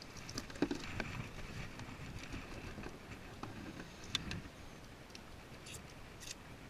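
Scattered small clicks and knocks of fishing gear being handled aboard a kayak, over a low rumbling background, with a few sharper clicks about four and six seconds in.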